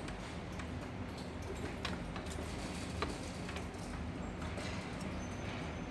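Irregular light clicks and taps, a few each second, over a steady low hum.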